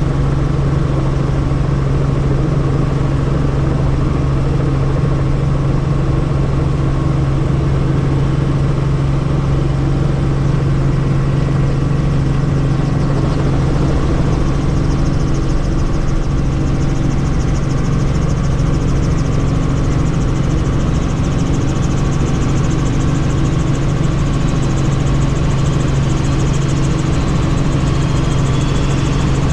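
Helicopter engine and rotors running steadily, a constant low hum with no change in pitch or level.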